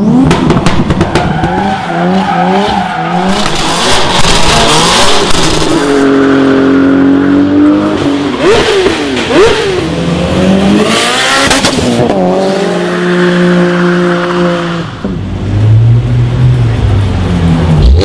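Modified car engines revving and accelerating hard. The pitch climbs in steps through gear changes, there are quick rev blips about halfway through, and there are stretches of tyre squeal.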